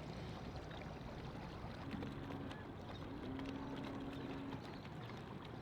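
Faint, steady low rumble of boat engines at a boat ramp, with two faint held tones in the middle, the second longer.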